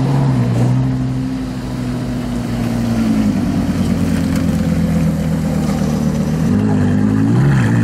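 Lamborghini Gallardo V10 running at low revs as the car creeps along, with a short blip of revs near the end.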